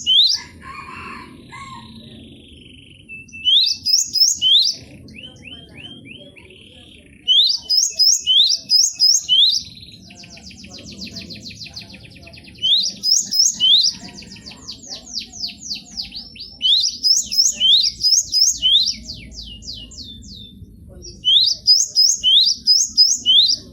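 Cinereous tit (gelatik batu) singing: repeated short phrases of sharp, high sweeping whistles in quick groups, broken by fast rattling runs of falling notes, while it runs through its varied song repertoire.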